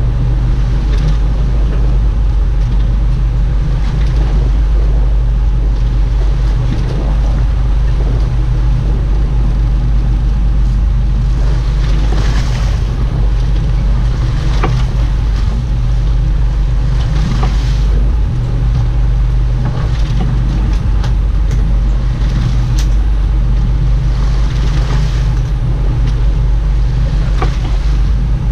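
A boat's engine running steadily with a constant low hum, under a wash of water and wind noise, with short rushes of hiss now and then.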